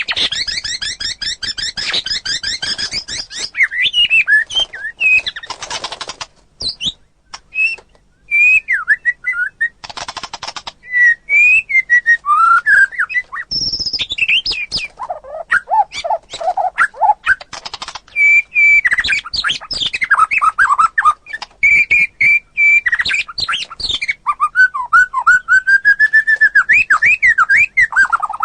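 White-rumped shama singing a long, varied song of clear whistles, rapid trills, up-and-down glides and short harsh rasping phrases, with brief pauses between bursts. It is singing continuously and vigorously.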